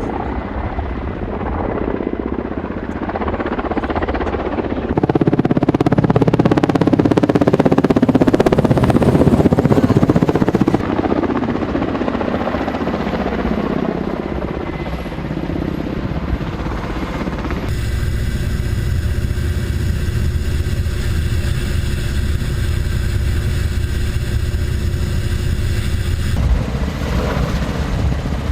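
Helicopter turbine engines and rotors running loudly and steadily. The sound changes abruptly several times, about 5, 11, 18 and 26 seconds in; from about 18 to 26 seconds a set of steady whining tones sits over a low rumble.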